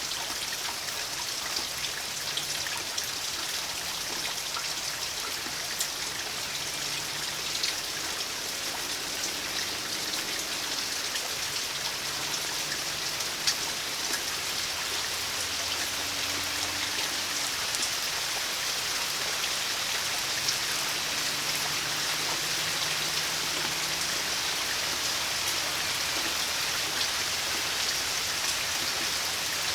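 Steady rain falling, with individual drops ticking sharply on surfaces close by. It grows slightly louder about halfway through.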